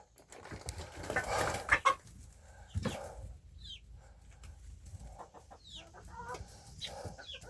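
Hens clucking, with several short high-pitched calls that fall in pitch.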